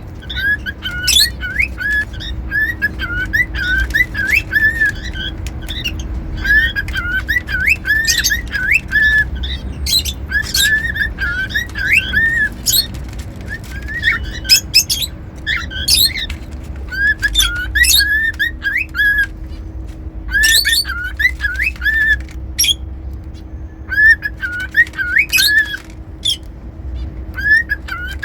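Cockatiel whistling a short warbling phrase over and over, each run a second or two long with brief pauses between, mixed with sharp high chirps.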